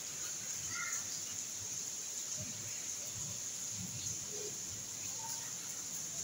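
A few faint, short bird chirps over a steady high hiss.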